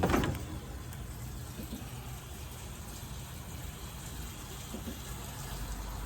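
Liquid soap pouring into a soft-wash tank as a steady gushing fill, over a low steady hum, after a brief knock right at the start.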